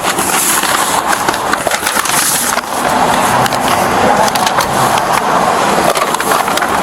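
Small hard wheels rolling over pavement, a continuous rumbling clatter with many small knocks, typical of a wheeled bag being pulled along.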